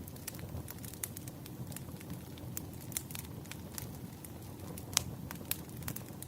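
Wood fire crackling: frequent sharp pops and snaps of burning firewood over a low, steady rumble of the flames, with a louder pop about five seconds in.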